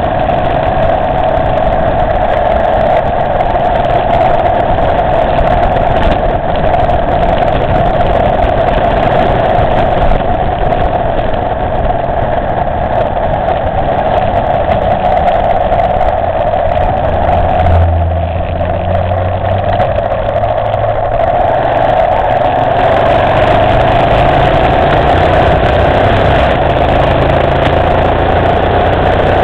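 Motorcycle engine running steadily under way, with a continuous engine note. About two-thirds of the way through it eases off briefly, as if the throttle is rolled back, then picks up again.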